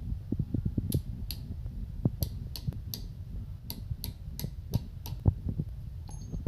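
A series of irregular sharp clicks and taps, about one or two a second, over a steady low hum.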